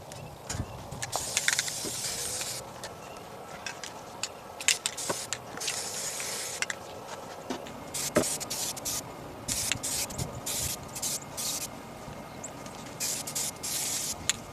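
Aerosol spray-paint can spraying in a string of short bursts, a few of them held for about a second, with the odd click in between, as a minibike fuel tank is given its coats of paint.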